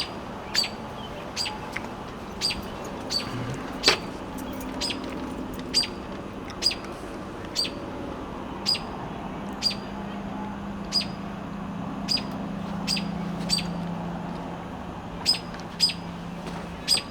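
A bird chirping over and over: short, sharp chirps about once a second, with a faint steady low hum underneath.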